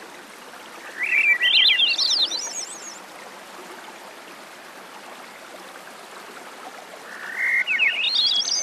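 A songbird singing two phrases, about a second in and again near the end, each a quick run of short notes climbing steeply in pitch, over a steady background hiss.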